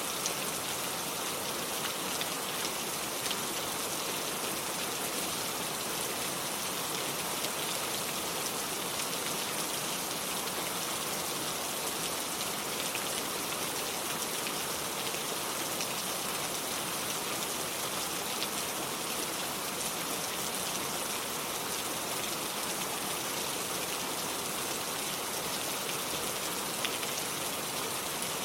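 Steady rain falling, a dense even hiss with scattered individual drops pattering on surfaces.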